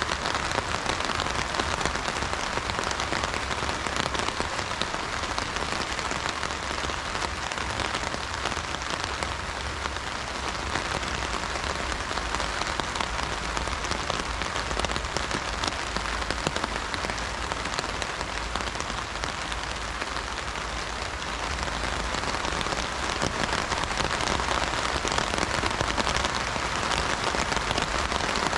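Heavy rain drumming steadily on an umbrella canopy, a dense patter of drops with no thunder.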